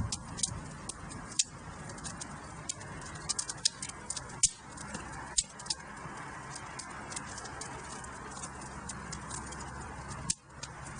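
Wood fire in a fireplace crackling: irregular sharp pops and snaps over a steady soft hiss of burning logs.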